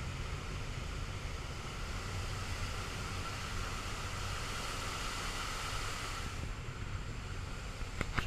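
Cessna 208 Caravan's turboprop engine and propeller running, heard from inside the cockpit during approach and landing: a steady drone with a low hum and a hiss. The hiss drops away about six seconds in, and there are a couple of sharp clicks near the end.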